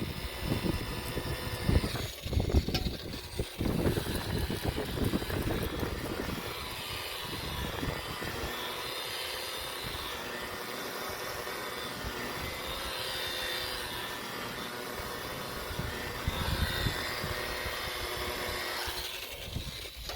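Rotary buffer with a wool pad running steadily, buffing compound into fiberglass boat gelcoat, its motor pitch shifting a little as the pad is worked over the surface. Heavier, uneven rumbling in the first few seconds.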